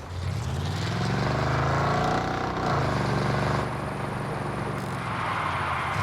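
Pickup truck engine revving up for about two and a half seconds, then dropping back and running steadily under load.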